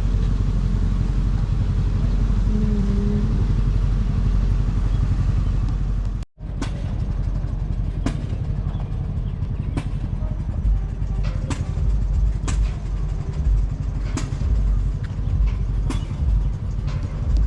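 Engine running steadily with a low drone. After an abrupt cut, an engine rumble continues with sharp pops about every second or two.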